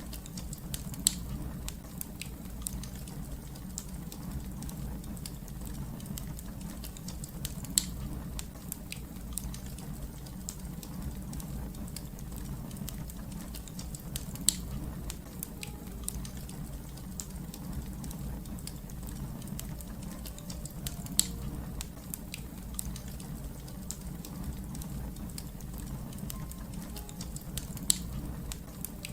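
Fire crackling in a fireplace: a steady low rumble of flames with constant small crackles and a sharper, louder pop about every seven seconds.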